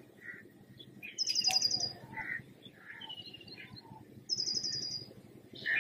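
Birds singing: a high, rapid trill comes twice, about three seconds apart, with softer chirps in between.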